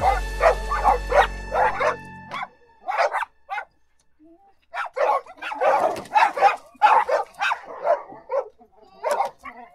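Dog barking in quick repeated barks over background music that stops about two seconds in. After a short pause in the middle, the barking returns as a dense run of barks.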